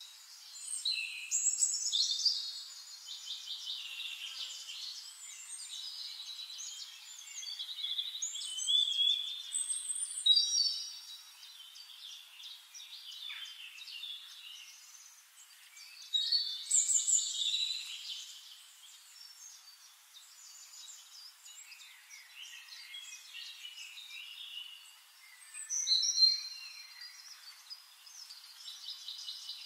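Birds chirping and singing in trills and short whistles, with louder bursts of song every few seconds.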